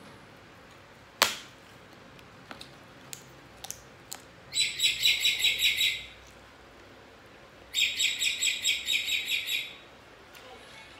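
A songbird chirping in two long, rapid trills, each a second and a half to two seconds long and the loudest sound here. About a second in there is one sharp snap as a fried cracker is bitten, followed by a few small eating clicks.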